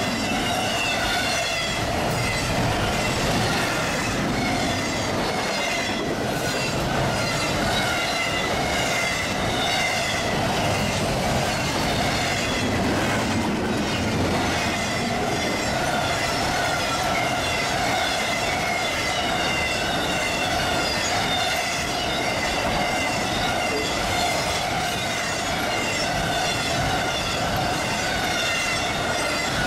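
Double-stack intermodal freight train rolling past: a steady rumble of its cars' wheels on the rails, with a wavering high whine over it throughout.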